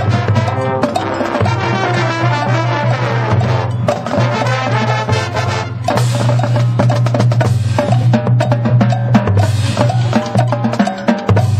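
Marching band playing: melodic lines over a sustained low bass note, with busy percussion strikes throughout.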